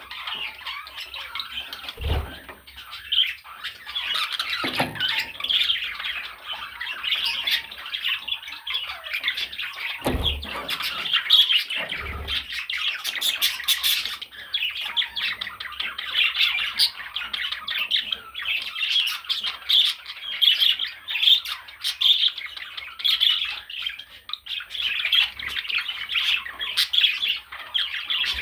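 Budgerigar chattering and warbling without a break, a fast run of squawks and chirps. A few dull low thumps sound under it.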